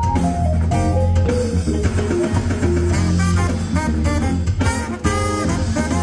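Live band music with drums, bass and guitar, with horns joining near the end: the closing bars of a song.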